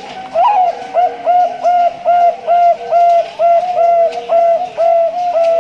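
Male zebra dove (Bangkok-line perkutut) singing: a rising opening note, then a run of about a dozen short, even coos, roughly two a second.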